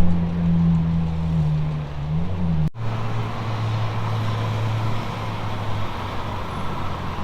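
Car engine running steadily at low revs in street traffic, a low even hum. The sound drops out for an instant a little under three seconds in, then carries on.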